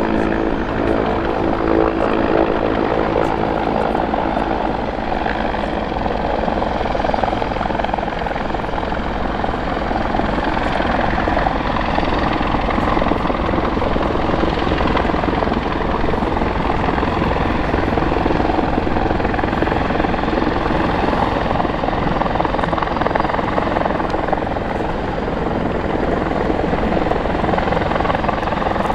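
CH-146 Griffon twin-turbine utility helicopter flying: steady, loud rotor and turbine noise that runs without a break.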